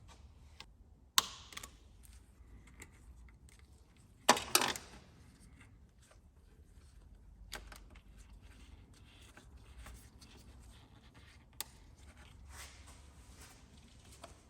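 Hose clamp on the engine's vacuum pump hose being released by hand with a tool. Two sharp clicks stand out: one about a second in and a louder double click about four seconds in. Between and after them come faint rubbing and handling sounds.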